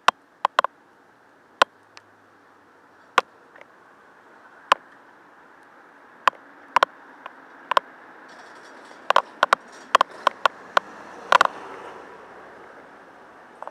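Bicycle being ridden: scattered sharp clicks and rattles at irregular intervals, over a hiss that slowly grows louder.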